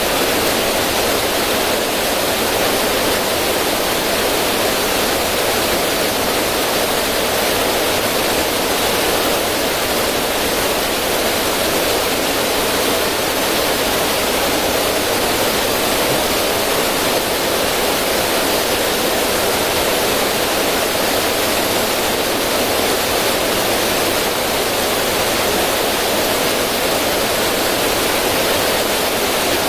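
River water running over stones and splashing down a small cascade: a steady, even rushing.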